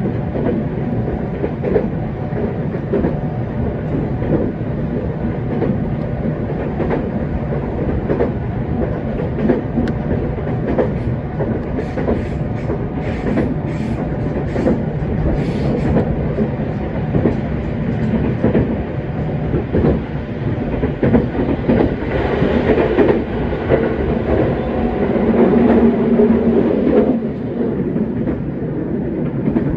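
Running noise inside a JR West 227 series electric train under way, a steady rumble with wheels clicking over the rails, as it climbs the steep Seno–Hachihonmatsu grade. Near the end a louder hum rises for a few seconds and then cuts off sharply.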